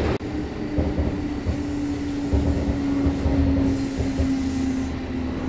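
Running noise inside a Kintetsu electric train: a steady motor hum that sinks slightly in pitch, over rumbling wheels with occasional low thumps from the track.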